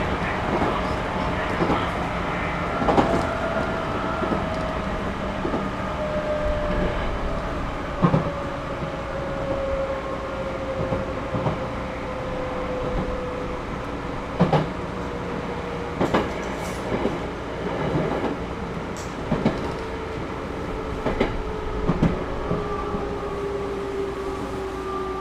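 Inside a Series 211-5000 electric train carriage running on rails: a steady rumble with a single whine that falls slowly in pitch as the train slows. Wheels knock over rail joints a dozen or so times at uneven intervals.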